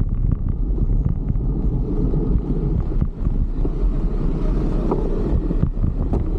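Wind buffeting the microphone of a moving bicycle, a steady low rumble mixed with passing road traffic, with a few small clicks.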